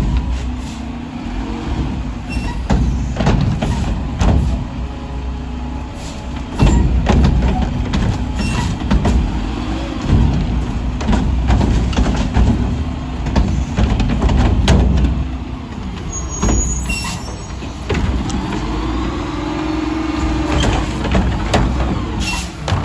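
Mack LR garbage truck at work: its diesel engine running and revving under load, with repeated metal clanks and knocks from the packer body and an air-brake hiss. Near the end a hydraulic whine rises and falls.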